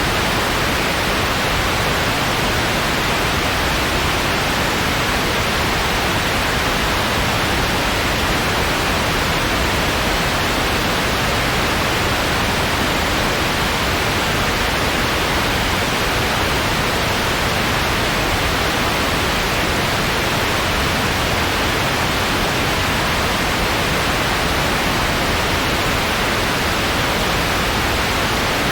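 Steady synthetic white noise, an even hiss that does not change.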